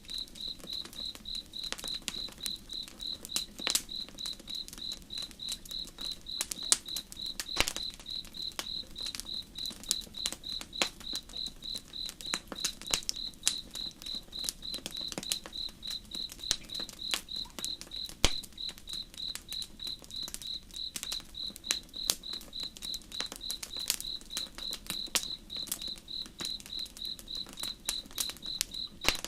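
A cricket chirping in a steady, even high-pitched pulse, a few chirps a second, over the irregular crackle and pops of a wood campfire. A faint low rush sits underneath.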